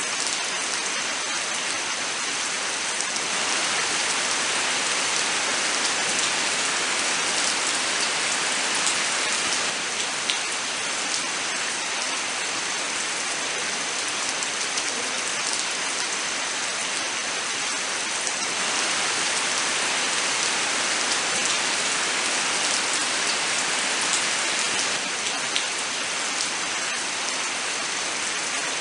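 Steady heavy rainfall, an even rush of water with scattered sharp drop ticks. A faint steady high whine runs underneath.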